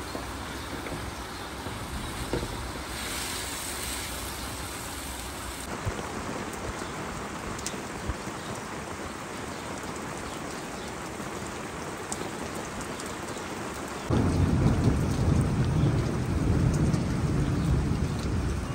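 Steady rain falling, with a few faint scattered ticks. About fourteen seconds in, a louder, deeper rumble suddenly joins the rain and lasts almost to the end.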